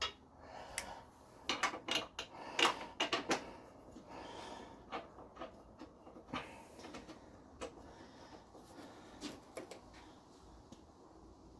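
Irregular clicks and knocks of hand tools and bolts being handled while the motor mount bolts are fitted. A quick run of several comes about two to three seconds in, then single ones spaced out.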